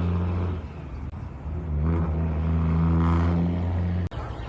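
A motor vehicle engine running with a steady low hum. It dips about half a second in, swells again about a second and a half in, and cuts off abruptly near the end.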